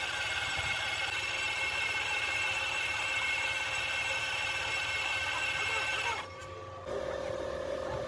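Rebuilt heavy diesel engine running steadily with a high whine. It cuts off abruptly about six seconds in, and a quieter, lower steady hum follows.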